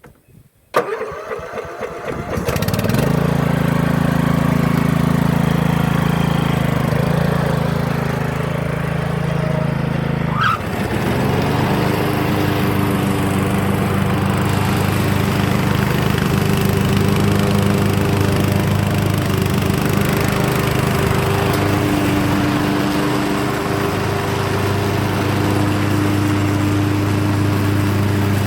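Yard Machines riding mower's engine being started: a short crank, then it catches about two seconds in and runs steadily. About ten seconds in there is a click and the engine's note changes, then it keeps running evenly.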